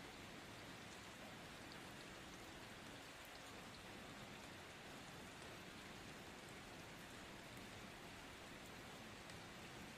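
Steady rain falling: a soft, even hiss with faint scattered ticks of individual drops.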